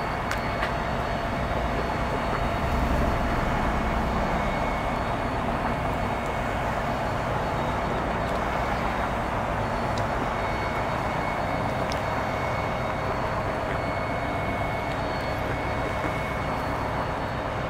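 Commuter train approaching the station: a steady rumble of engine and wheels, a little louder about three seconds in, with a faint thin high tone over it.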